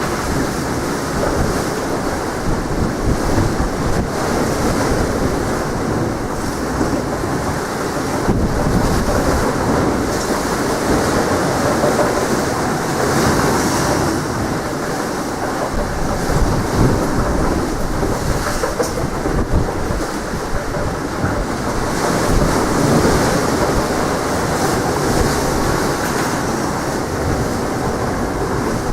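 Strong wind buffeting the microphone as a continuous, gusting rumble, over the wash of sea waves.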